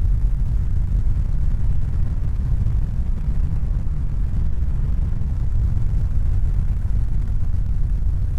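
A steady, loud low rumbling noise with no separate events or pitched tones in it.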